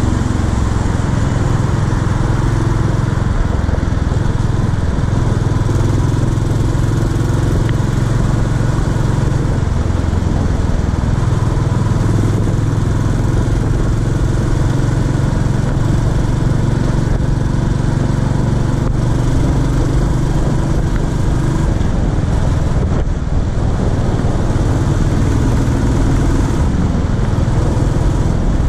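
Royal Enfield Classic 350's single-cylinder engine running steadily while riding in traffic, with road and wind noise.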